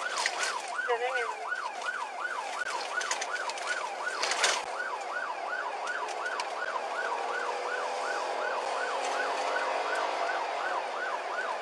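Police car siren in fast yelp mode, sweeping up and down in pitch about three times a second. A short noise burst comes about four seconds in.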